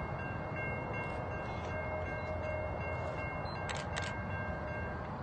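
Low steady rumble of an approaching Norfolk Southern office car special train, with steady high-pitched tones that stop just before the end and two short clicks about four seconds in.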